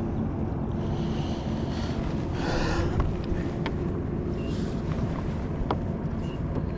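Skiff's motor running steadily with wind buffeting the microphone, and a brief louder rush of noise about two and a half seconds in.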